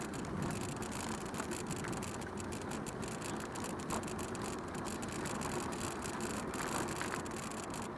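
Steady rolling noise of a bicycle being ridden: tyres on the path with a continuous rumble, and a few faint short squeaks.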